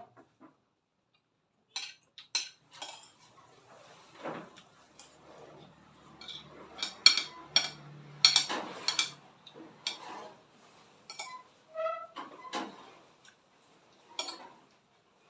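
Utensils clinking and scraping on a plate during a meal, in irregular sharp clicks, busiest in the middle with a few short ringing tones.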